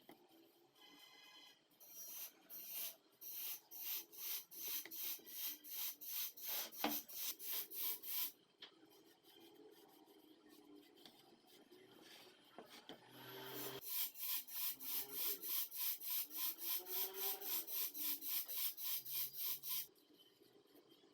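Back-and-forth hand rubbing of an abrasive on the wooden table top, in two runs of quick, even strokes at about three to four a second, with a pause between.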